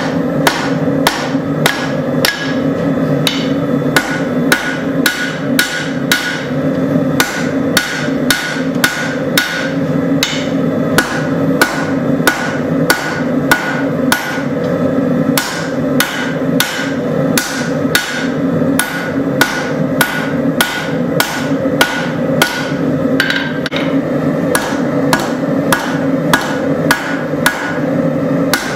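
Hand hammer striking hot flat spring steel on an anvil, forging the point of a tanto blade. The blows come steadily, about two a second, over a continuous low rumble.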